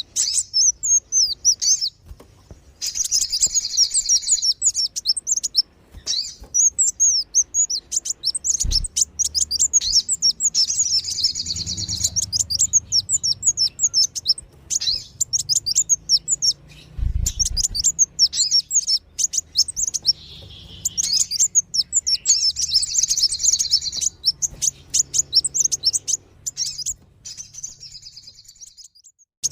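Bird-lure recording of kolibri wulung and sogon sunbird calls: rapid, high, thin chirps in dense twittering runs, broken every few seconds by short pauses.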